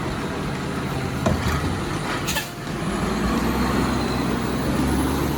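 Republic Services side-loader garbage truck's diesel engine running, with a click about a second in and a short air-brake hiss a little over two seconds in. The engine then gets louder and stays up, as the truck moves off.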